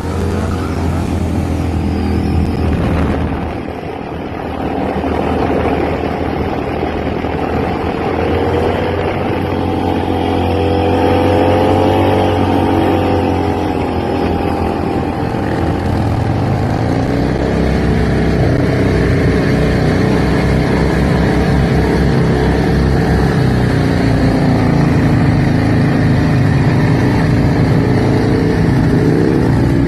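Motorcycle engine running continuously, its pitch rising and falling as the throttle is worked.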